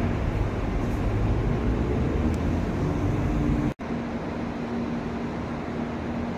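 N700-series Shinkansen train standing at the platform, its equipment giving a steady hum over a low rumble. A little past halfway the sound drops out for an instant, then comes back somewhat quieter with less rumble.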